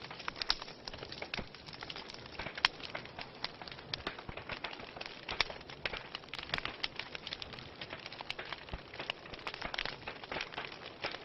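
Wood fire burning in a fireplace, crackling with many irregular small pops and snaps, a few of them sharper than the rest.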